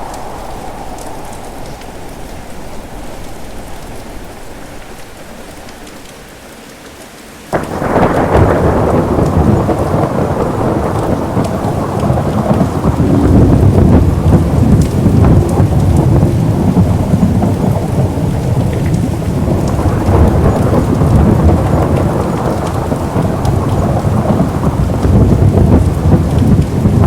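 Steady rain, then a sudden crack of thunder about a quarter of the way in, opening into a long, loud rumble of thunder over heavy rain.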